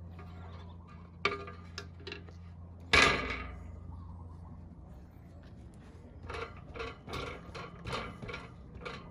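Workshop handling noise: a sharp knock, then one loud metallic clank with a brief ring about three seconds in, and a run of smaller knocks and clatters near the end, as tools or engine parts are set down and moved. A steady low hum runs underneath.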